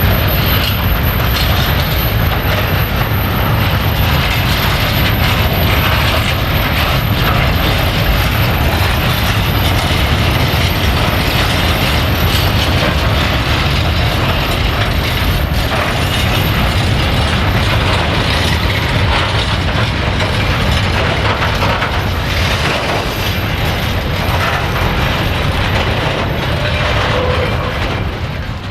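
Freight train wagons rolling past: a steady heavy rumble of wheels on rail with a dense rattle and clatter of couplings and wagon bodies, easing slightly near the end.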